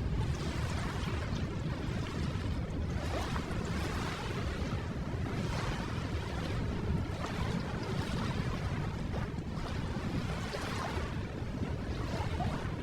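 Ocean surf, waves washing in one after another, each swelling and fading every few seconds over a steady rushing noise.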